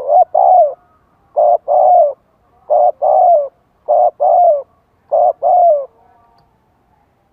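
Spotted dove cooing: five two-note coos about a second and a third apart, each a short note followed by a longer one that falls in pitch at its end.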